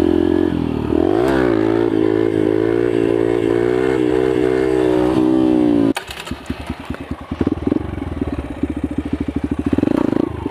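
Yamaha TT-R125's single-cylinder four-stroke engine revving up and held high under throttle. About six seconds in the throttle is shut and it drops suddenly to a low, pulsing chug, then revs up again near the end.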